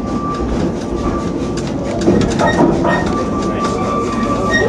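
Narrow-gauge steam railway carriages running along the track, heard from on board: a steady rumble and rattle of the coaches with faint wheel clicks. A thin high squeal comes and goes as the train runs round a curve.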